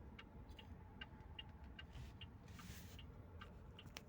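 MG car's turn-signal indicator ticking steadily in the cabin, about two and a half ticks a second, faint, over a low hum from the car.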